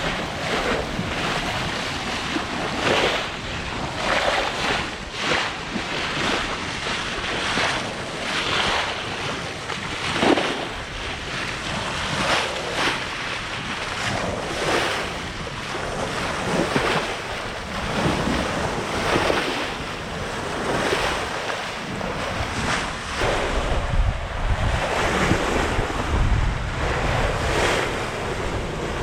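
Sea rushing and splashing past a sailing yacht's hull as it sails fast, with wind buffeting the microphone, heavier near the end.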